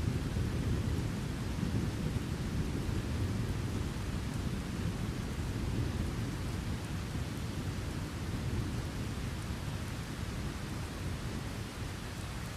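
Low rolling thunder rumbling over steady, heavy rain, the rumble easing off slightly near the end.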